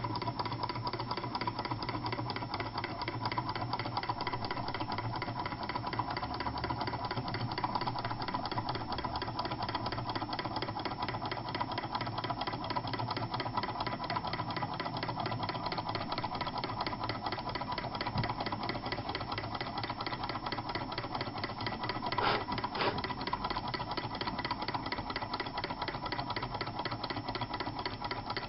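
Two small model Stirling engines with light wooden working pistons running steadily, a fast even mechanical clatter. A couple of slightly louder knocks come through a little after two-thirds of the way in.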